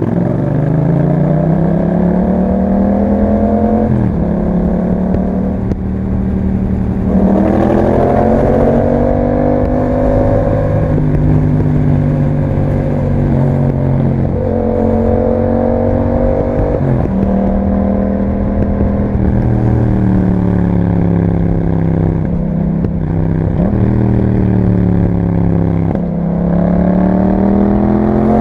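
A 2021 Yamaha MT-07's parallel-twin engine running through an Akrapovic exhaust while the bike is ridden. Its pitch climbs steadily under acceleration and drops abruptly at each gear change, about half a dozen times.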